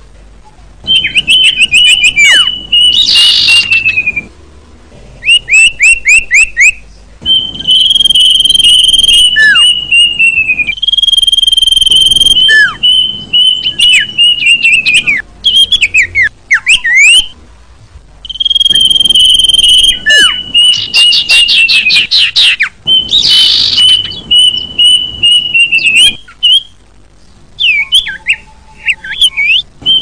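Birdsong of the sirpu and the kedasi: loud phrases of high, held whistles broken by fast trills and short down-slurred notes, repeating with brief pauses between them.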